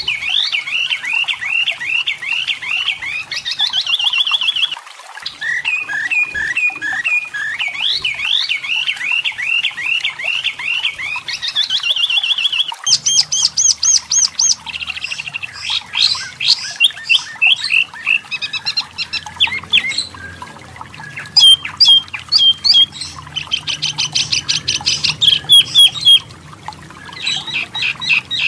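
Wambi mini (tepus lurik, a striped tit-babbler) singing continuously. Runs of quick repeated chirps in the first half give way to fast rattling trills and sharp squeaky notes in the second half.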